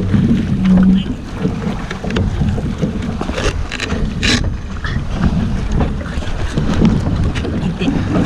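Wind buffeting the microphone aboard a small sailboat under way, a steady low rumbling noise with water moving along the hull; a couple of short, sharper noises come about three and four seconds in.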